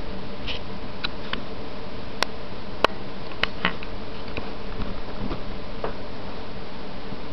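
Scattered light taps and sharp clicks of two kittens playing and tussling, a few irregular ones over several seconds, over a steady background hiss and hum.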